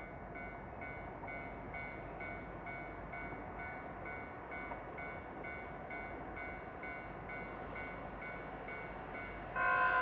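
Railway level-crossing alarm ringing at a steady pace of about two strikes a second, heard at some distance over low background rumble. Just before the end a much louder steady sound of several held tones sets in.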